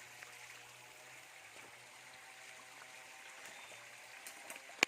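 A stream of water flowing steadily, with one sharp click near the end.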